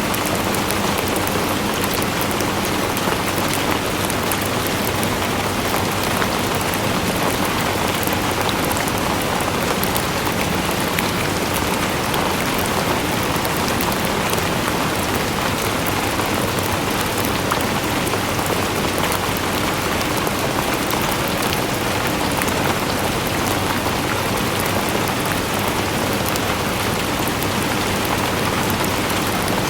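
Steady rain falling, a dense even hiss with many small drop ticks and no pauses.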